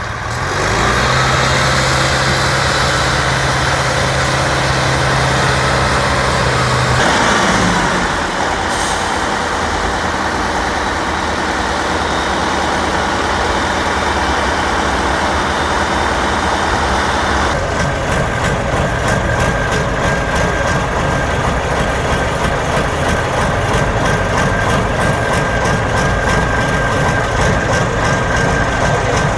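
Off-road trial truck engine running, the sound changing abruptly about a third of the way in and again a little past halfway.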